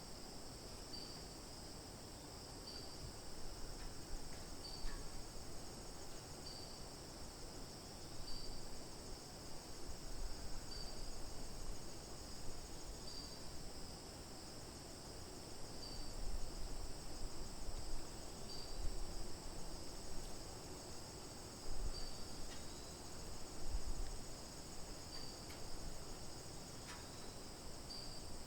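Steady, high-pitched chorus of trilling insects such as crickets, with a short chirp repeating about every two seconds. A low, uneven rumble rises and falls underneath.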